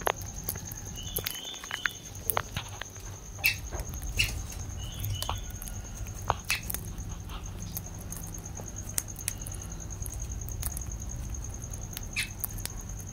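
Lovebirds moving about in a cage: scattered clicks and scratches, with a few short high chirps in little clusters. A steady high pulsing tone and a low rumble run underneath.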